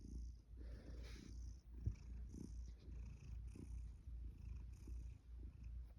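Domestic cat purring while being stroked: a low, steady rumble that rises and falls in regular pulses with each breath in and out.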